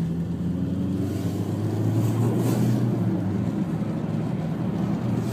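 Car engine running, a steady low drone whose pitch shifts slightly.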